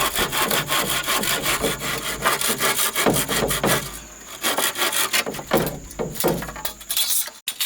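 Wood being sawn by hand with a saw, in a rapid run of rasping strokes, then slower, separate strokes after about four seconds. The sound cuts off abruptly just before the end.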